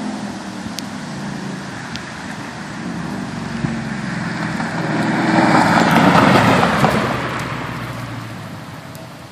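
2013 Ford Mustang 5.0 V8 running through Flowmaster Outlaw exhaust, driving past. The sound builds to its loudest about six seconds in, then fades away.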